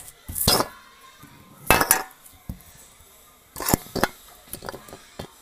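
Hard objects clattering and clinking, such as containers or utensils being handled, in several short bursts with a few smaller clicks between.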